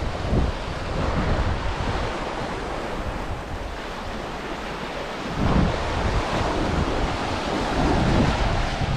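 Ocean surf washing onto a sandy beach, a steady hiss of breaking waves, with wind buffeting the microphone in low rumbling gusts that ease off for a moment and pick up again about halfway through.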